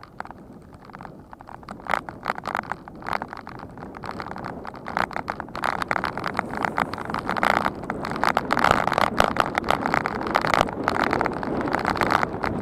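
Wind buffeting the microphone and road noise while riding a bicycle, getting louder about halfway through as the speed picks up.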